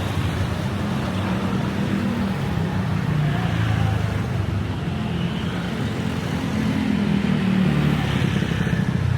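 Street traffic: cars and motorcycles passing, with the engine sound swelling twice as vehicles go by.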